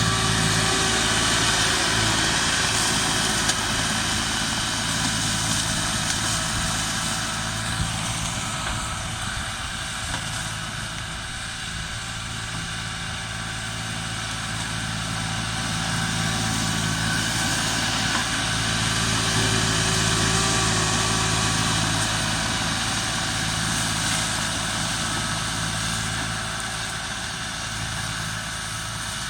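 Forestry robot clearing brush: its engine runs continuously under a dense rushing noise, the level swelling and easing gently, with one or two brief knocks.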